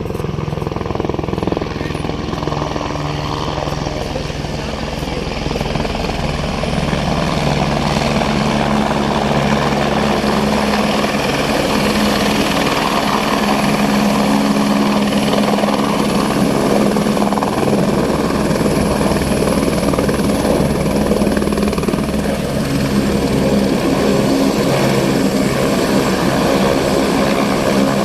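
Helicopter engine and rotor running steadily, growing louder over the first ten seconds, with a high turbine whine that drops slightly in pitch about two-thirds of the way through.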